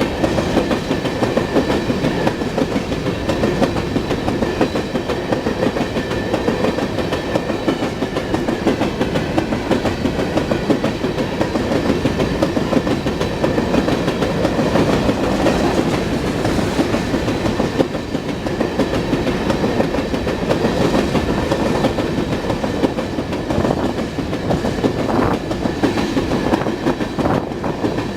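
Railroad cars rolling steadily past, wheels clacking over the rail joints, with a faint steady high whine from the wheels.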